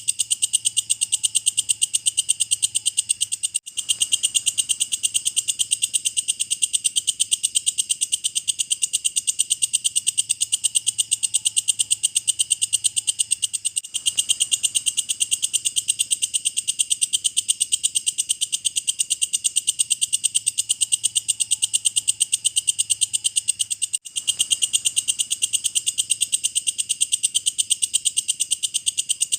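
Walang kecek (belalang kecek) insect singing a fast, steady, high-pitched rattling trill of rapid regular pulses, broken by a brief gap about every ten seconds.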